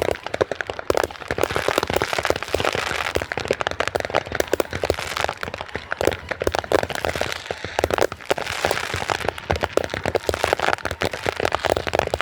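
Fireworks and firecrackers going off in a dense, rapid run of sharp cracks and crackling, with no break.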